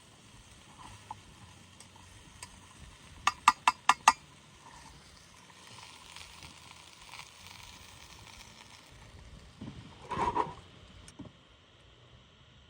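Campfire cooking: a faint sizzling hiss, a quick run of about five sharp clicks a little over three seconds in, and a short clatter about ten seconds in, like a utensil working in a pan.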